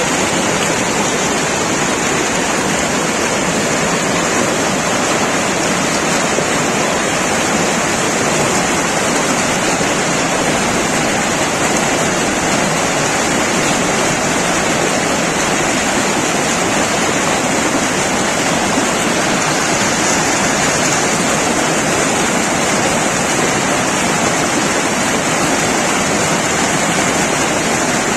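Waterfall: the steady, loud rush of falling water, with no change throughout.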